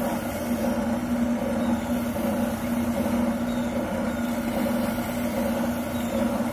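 Wilton oscillating sander running steadily with an even electric hum.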